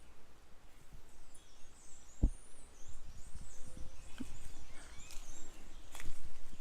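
Outdoor ambience: breeze rumbling on the microphone with faint bird chirps. One sharp thump about two seconds in, and a few soft knocks and rustles near the end.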